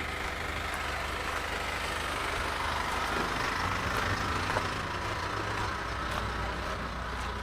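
A motor vehicle's engine running steadily close by, with a low hum. It grows a little louder about four seconds in, then eases off.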